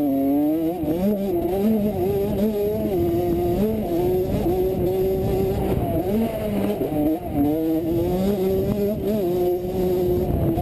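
Dirt bike engine revving hard on a motocross track, its pitch climbing and dropping again and again as the throttle is opened and closed and gears change.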